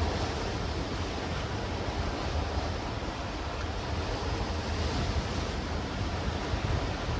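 Sea surf washing steadily against black rocks and stones on the shore, with wind rumbling on the microphone.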